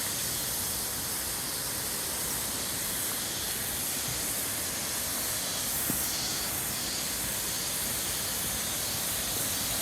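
Steady rushing hiss of a river and waterfalls in the valley below, with a high, even insect drone on top.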